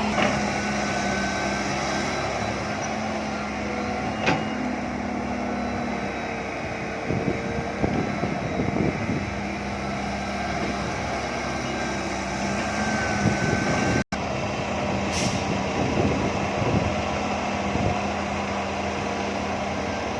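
John Deere 595D excavator's diesel engine running steadily, with a thin high whine over it and scattered clanks and knocks from the machine at work.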